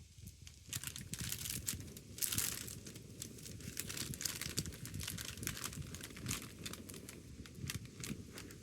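Wood fire crackling, with dense irregular snaps and pops starting within the first second and thickest around two seconds in, over a low steady rumble.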